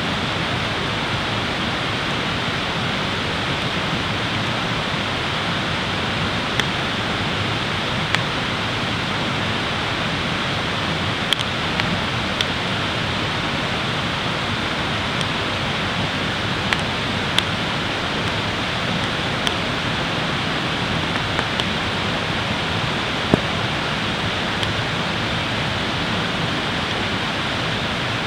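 Steady rush of running water, with scattered sharp pops and crackles from a small campfire.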